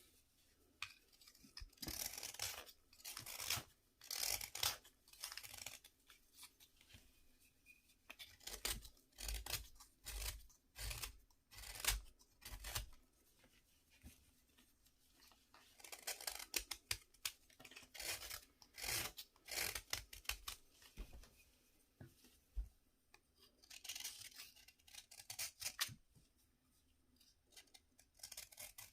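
Bath fizzer being cut and crushed: repeated short scratchy strokes in runs, with a few dull thuds around the middle.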